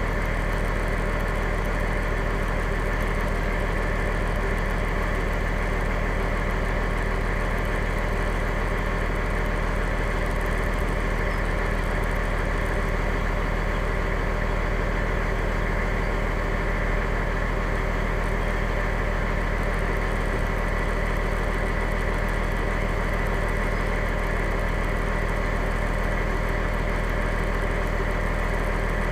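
Fire engine's engine running steadily, a constant low hum with no revving or change in pitch, heard from inside the cab.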